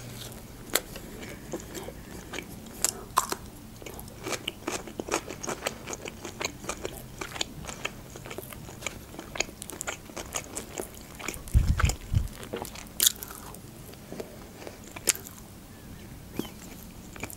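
Close-miked mouth sounds of eating: biting into and chewing khachapuri bread crust and pickles, a steady run of small crunches, clicks and wet crackles. A brief low thump comes about two-thirds of the way through.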